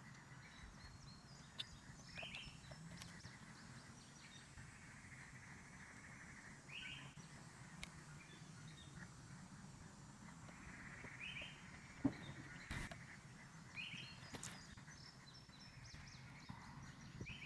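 Quiet outdoor ambience with a bird giving a short call every few seconds, far off. A few sharp clicks and knocks come through, the loudest about twelve seconds in.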